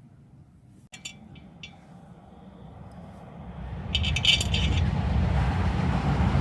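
Metal engine parts and tools clinking and scraping during hand assembly, with a few sharp clicks, then a louder rushing noise that builds over the second half with a cluster of metallic clinks in it.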